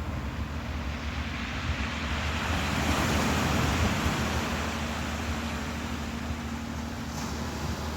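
Ocean waves washing in, a surge building to a peak about three seconds in and then easing off, over a steady low hum.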